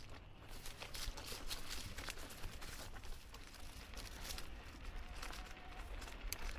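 Footsteps on a forest trail: a scatter of light crunching steps over a steady low rumble.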